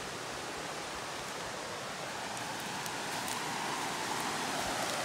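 Steady rush of river water flowing over rocks, growing a little louder about two seconds in.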